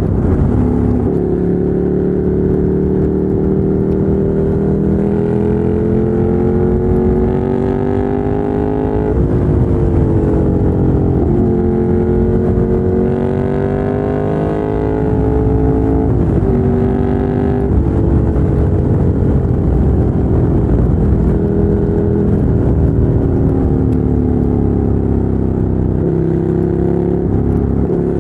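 2017 Ducati Monster 797's air-cooled L-twin running through a LeoVince LV-10 aftermarket exhaust while riding. The engine note climbs under throttle and drops back several times as the rider shifts gears and rolls off.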